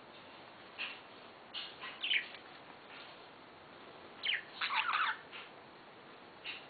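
Budgerigars chirping in short, scattered calls, with a quick flurry of chirps about four to five seconds in.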